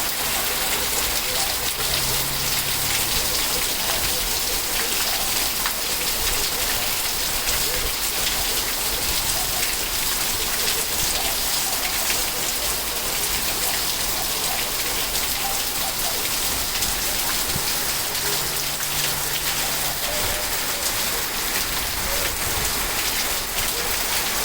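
Steady rain falling: an even hiss of many drops pattering on surfaces.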